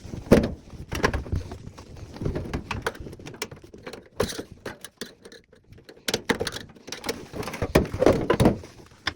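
Irregular knocks, clicks and rattles as metal dryer panels and parts are handled during a teardown.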